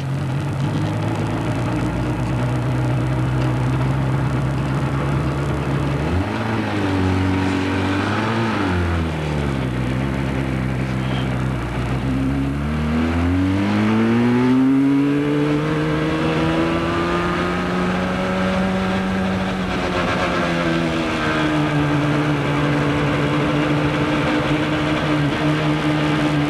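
Motorcycle engine running while riding. Its pitch rises and falls with the throttle: a long climb in revs about halfway through, a drop soon after, then a steady note.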